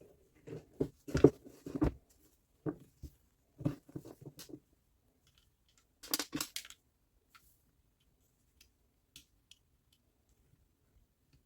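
Irregular clicks and knocks of parts and tools being handled at a workbench: a run of sharp taps in the first few seconds, a short scraping clatter about six seconds in, then a few faint ticks. No motor is running.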